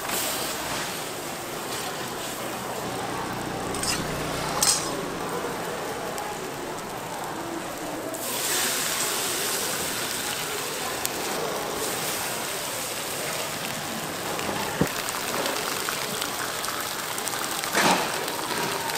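Korean pancakes (jeon) frying in oil on a flat griddle, a steady sizzling hiss that grows louder and brighter about eight seconds in, with a few sharp knocks.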